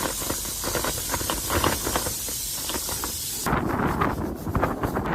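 Pressure cooker releasing steam through its valve with a steady high hiss, a sign that it has come up to pressure; the hiss cuts off suddenly about three and a half seconds in. Wind buffets the microphone throughout.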